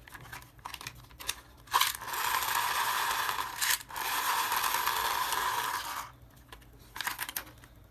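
Toys being handled: a few light clicks and knocks, then two stretches of steady hissing, whirring noise, each about two seconds long, with a short break between them.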